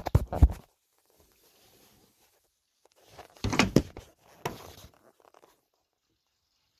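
Two short bursts of rustling and knocking, one right at the start and a longer one about three and a half seconds in, with near silence between them.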